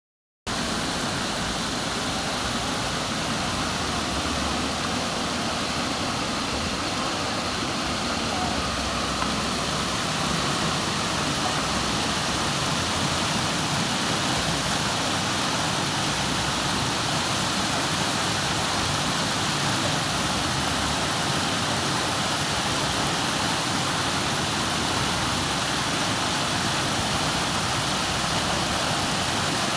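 Steady rush of flowing water, an even hiss and roar that holds at one level throughout.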